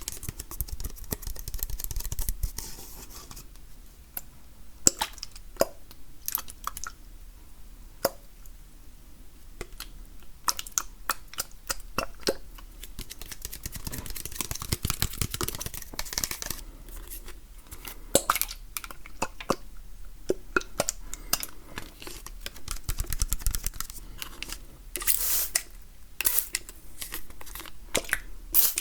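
ASMR hand sounds close to the microphone: hands rubbing, tapping and crackling in an irregular run of sharp little clicks and rustles.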